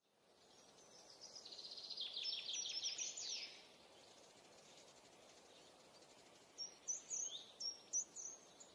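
Outdoor woodland ambience fading in, with a faint steady hiss and wild birds singing. A trill of rapid repeated high notes ends in quick downward sweeps, and from about two-thirds of the way through a run of short high chirps follows.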